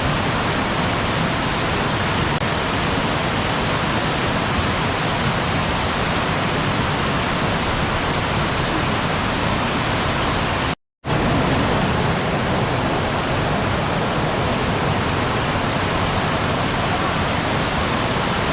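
Waterfall rushing in a steady, even roar of falling water. It cuts out completely for about a third of a second near the middle, then resumes.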